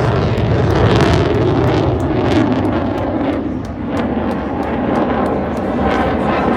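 Eurofighter Typhoon jet flying a display, its engine noise loud and steady with many short cracks through it, dipping briefly about halfway.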